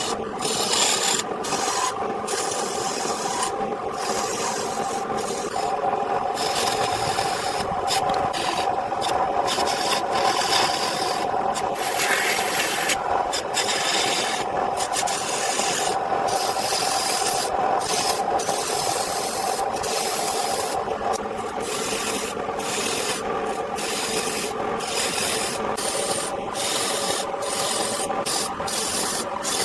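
A power tool running steadily while grinding or sanding wood: continuous abrasive rasping, broken by many brief lifts of the tool, over the motor's even hum.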